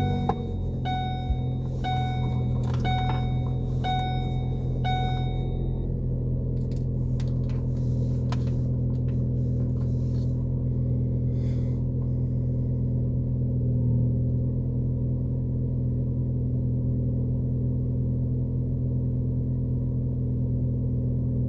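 Steady low drone of a car cabin while driving. For the first several seconds a dashboard warning chime rings about once a second, about six times, then stops.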